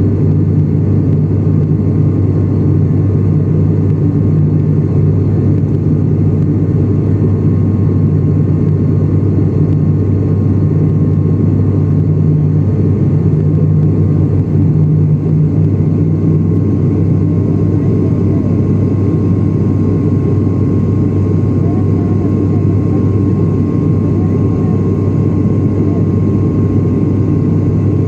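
Steady drone of an airliner's engines and airflow heard inside the passenger cabin, with a thin steady whine over the low rumble.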